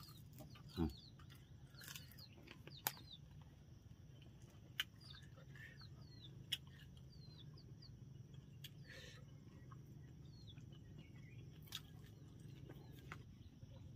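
Faint bird chirps, many short downward-sweeping notes scattered throughout, over a low steady background hum. A few light clicks and knocks cut in, the loudest a dull knock about a second in.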